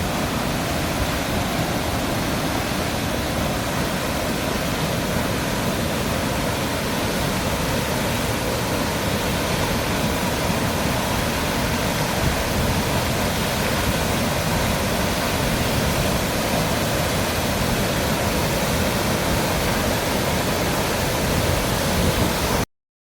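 Waterfall rushing with a steady, even roar of falling water; it cuts off suddenly near the end.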